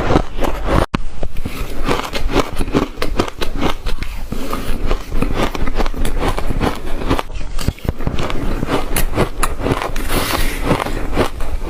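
Shaved ice being bitten and chewed right at the microphone: dense, rapid, continuous crunching, broken by two momentary gaps.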